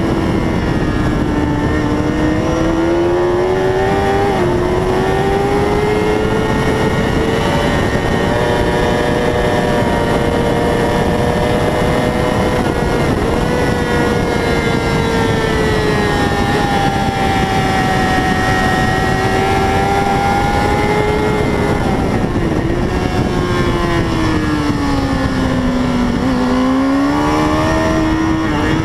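A 600 cc racing motorcycle engine running hard at high revs, its pitch rising and falling slowly as the rider works through the track. The pitch dips briefly about halfway through, sinks lower near the end and climbs again. A constant rush of wind noise runs under it.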